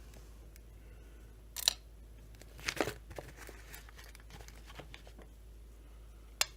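Handling noise from small parts during chainsaw crankcase assembly: a few sharp clicks and light clatter, the loudest about a second and a half in, a short cluster a second later, and one more near the end.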